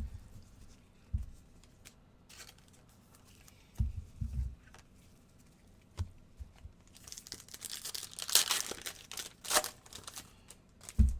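A trading-card pack wrapper being torn open and crinkled, the crackling densest about seven to ten seconds in, with several dull thumps of hands and cards on the table.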